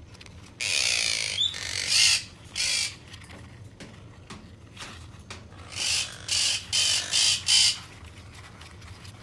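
Quaker parrots (monk parakeets) giving harsh, screechy squawks in two bouts: three calls, the first about a second long, then a quicker run of about five short squawks.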